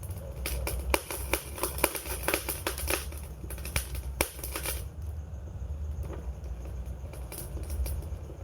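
Campfire crackling with many quick sharp pops over a low steady rumble. The pops thin out to a few scattered ones about five seconds in.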